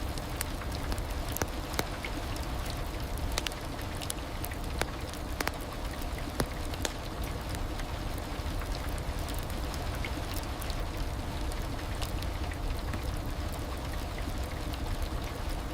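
Steady heavy rain: a constant hiss of falling rain with many sharp individual drops ticking on a surface.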